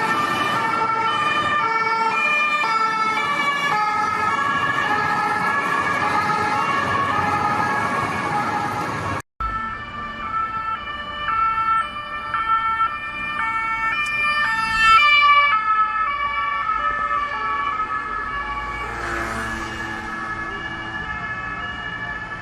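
French police two-tone sirens on unmarked cars, switching back and forth between two pitches about twice a second, over engine and traffic noise. The recording cuts abruptly about nine seconds in to a second siren, which is loudest about fifteen seconds in.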